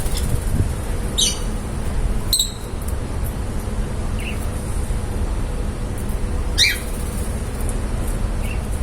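Lovebirds giving a few short, high chirps spaced a second or more apart, the loudest about two-thirds of the way through, over a steady low rumble.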